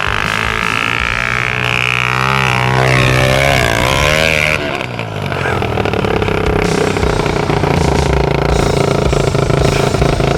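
Pit bike engine revving, its pitch rising and falling several times in the first few seconds, then running more evenly at a steadier pitch.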